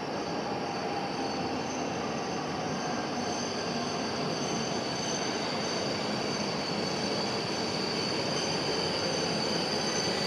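Shinkansen bullet train pulling slowly into a station platform: a steady running noise with a high, even whine over it, growing slightly louder as the train approaches.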